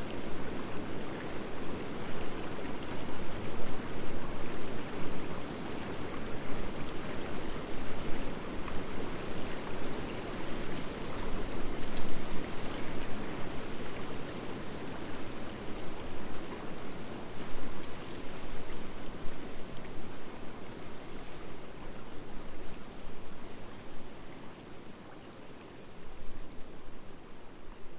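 Wood fire of driftwood and dry hardwood burning with a steady rushing sound and a few sharp pops, the clearest about twelve and eighteen seconds in.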